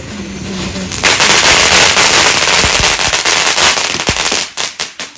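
Fireworks going off: a loud, dense crackling burst begins about a second in, then thins to a few separate cracks and dies away near the end.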